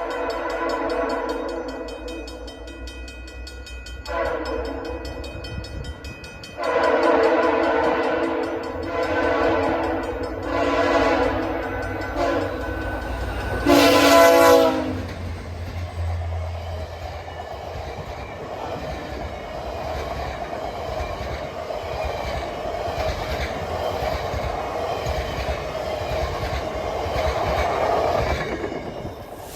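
VIA Rail diesel locomotives sounding their horn in several blasts as they approach, the loudest as they pass about 14 seconds in. A long passenger train's cars then rumble and clatter over the rails.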